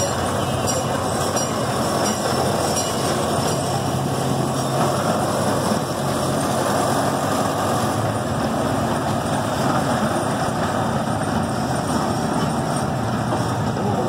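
C.P. Huntington miniature park train running steadily along its track, heard from an open passenger car: an even, continuous running noise of the train in motion.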